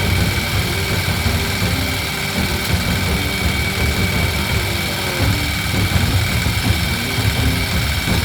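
Walk-behind farm tractor's diesel engine running steadily with a low, even chugging.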